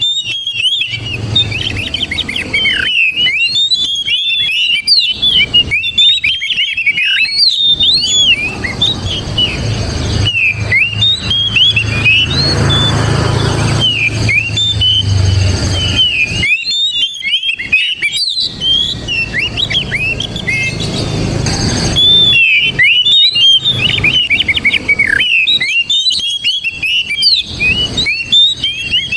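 Oriental magpie-robin singing a rapid, continuous run of high whistled and chirping notes with short pauses. A low rumble runs under the song through the middle.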